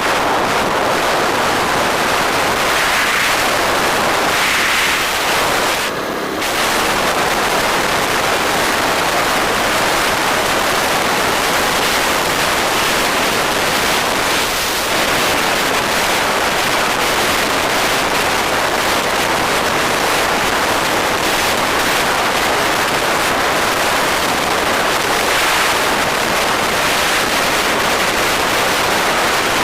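Steady wind rushing over the microphone of a moving bike, mixed with road noise, with a brief dip about six seconds in.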